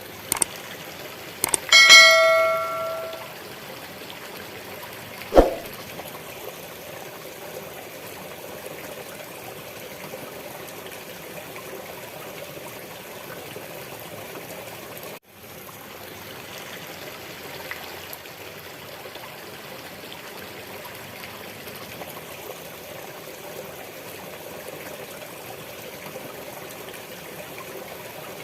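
Steady rushing water of a waterfall. About two seconds in, a single bell is struck and rings out for about a second; a short thump follows a few seconds later, and the water briefly cuts out about halfway through.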